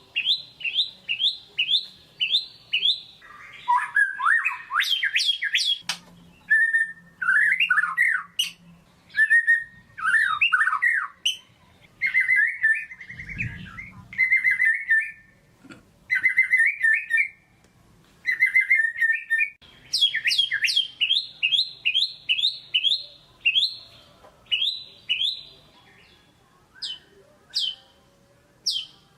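White-rumped shama singing a vigorous, varied song. Runs of quick, high, downward-sweeping whistled notes at about three or four a second alternate with lower warbled phrases in the middle stretch, and the high note runs return from about twenty seconds in.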